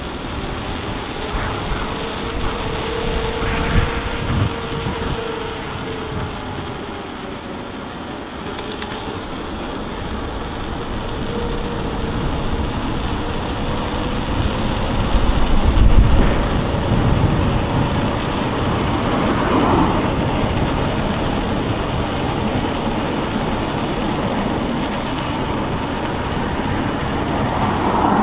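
Road traffic noise heard while cycling along a town road: a steady wash of passing cars with a faint steady hum, and a louder low rumble about halfway through.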